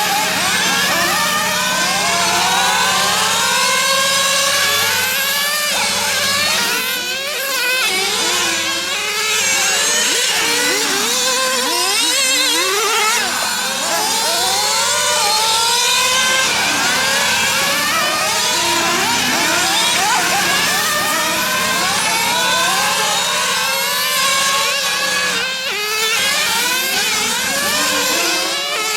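Several 1/8-scale nitro RC cars running laps, their small two-stroke glow engines revving up and down in many overlapping rising and falling whines as they accelerate and lift off through the corners.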